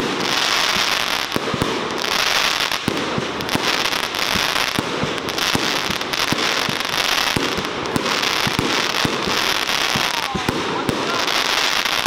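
Fireworks display: a rapid, continuous series of bangs from bursting shells, with stretches of hissing crackle between them.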